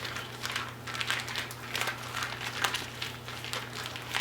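Quart-sized plastic zip-top freezer bags crinkling and rustling in irregular bursts as raw chicken in marinade is massaged inside them.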